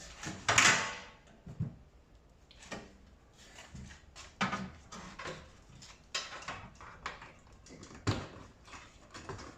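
Tumble dryer's front panel being handled and fitted into place: a scraping rush about half a second in, then a string of irregular knocks and clunks.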